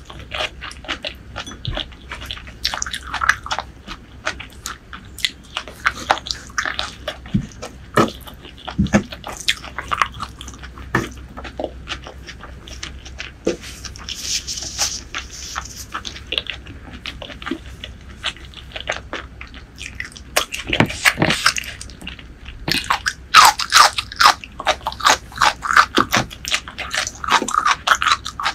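Close-miked eating sounds: chewing and biting spicy chicken hearts and rice, with wet mouth clicks and smacks. A brief rustle of a tissue around the middle, and louder, denser wet squishing near the end as fingers mix rice into the curry.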